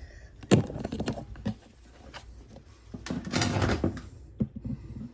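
Handling noise: a sharp knock about half a second in with a clatter after it, then a scraping rattle lasting about a second, and a few short knocks near the end.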